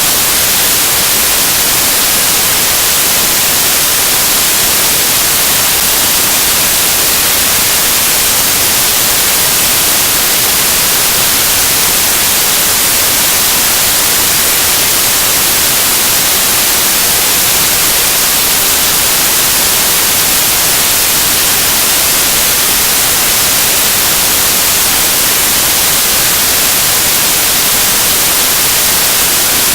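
Loud, steady static hiss like white noise, even and unbroken, with most of its energy in the high treble.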